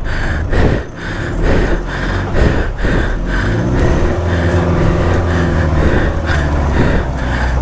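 Off-road 4x4 engine running under load and revving unevenly, settling to a steadier note about halfway through. A higher pulse repeats about twice a second over it.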